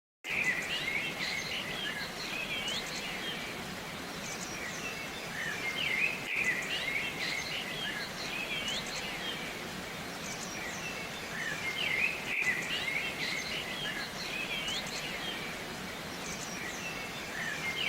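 Many small birds chirping and twittering over a steady hiss, the chirping swelling about every six seconds.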